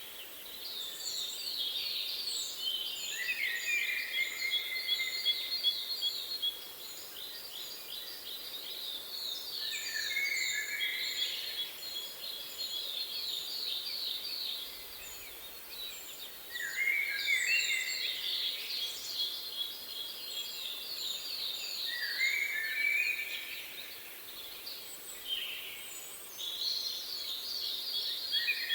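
Songbirds singing in repeated bouts of several seconds each, fast trills of rapid high notes mixed with lower warbled phrases, over a faint steady hiss.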